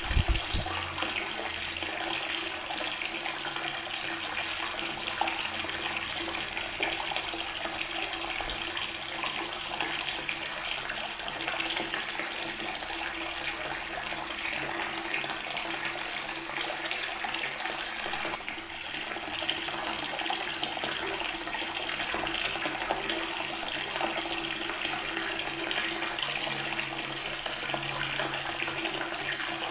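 Water tap running steadily, the stream splashing onto natural stone. A brief low thump right at the start.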